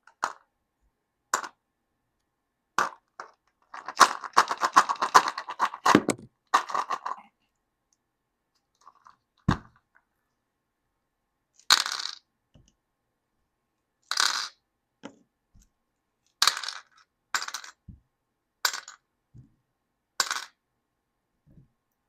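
Small plastic miniature toys clicking and tapping against a hard surface one at a time, a sharp click every second or two, with about two seconds of plastic packaging crinkling about four seconds in.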